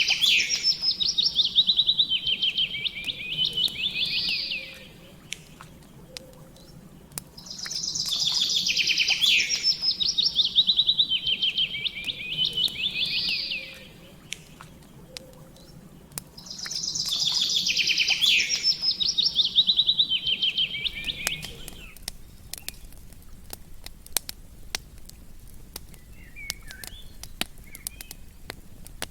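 A songbird sings the same rapid trilling phrase three times, each about five seconds long with pauses between, over the scattered sharp crackles of a campfire. About twenty seconds in, the song stops, leaving the crackling and a few faint chirps.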